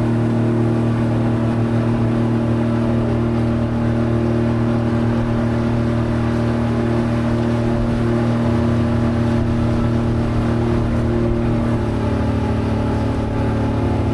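River cruise boat's engine running steadily under way, its note settling slightly lower about twelve seconds in.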